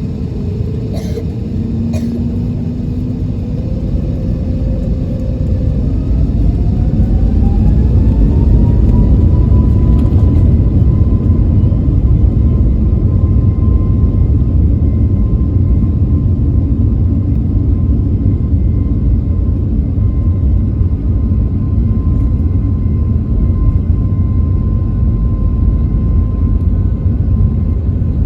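An Airbus A321neo's turbofan engines, heard from inside the cabin, spooling up for takeoff. A whine rises in pitch over several seconds and then holds steady over a loud, deep rumble as the takeoff roll builds. Two brief clicks come near the start.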